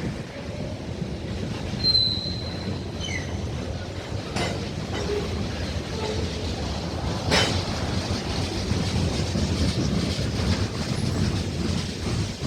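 Norfolk Southern freight train rolling past with a steady rumble of wheels on rail. A brief high wheel squeal comes about two seconds in, and two sharp clanks come around four and seven seconds in.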